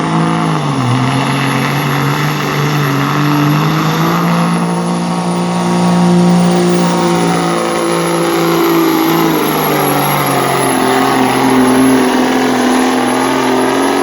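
Semi truck's diesel engine working hard under heavy load during a truck pull, its pitch dipping near the start, then holding and climbing. About two-thirds of the way through the engine note drops to a lower level, while a thin high whine runs above it.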